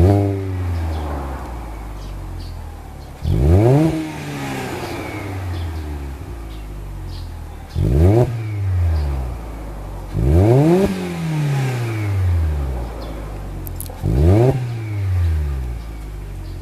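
Alfa Romeo 147 exhaust through an aftermarket titanium muffler, the engine revved in five quick blips that rise sharply and sink back to idle between them.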